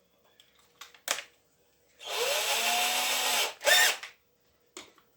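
A small power tool motor runs for about a second and a half, its whine rising as it spins up. There is a sharp click about a second in and a short loud burst just after the motor stops.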